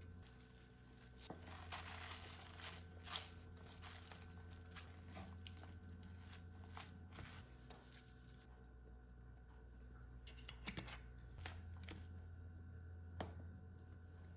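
Faint food-preparation handling sounds: soft rustling and crinkling with scattered light clicks and taps, over a low steady hum.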